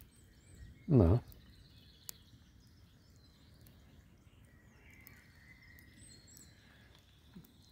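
Faint outdoor ambience with small birds chirping in the distance now and then, and one sharp click about two seconds in.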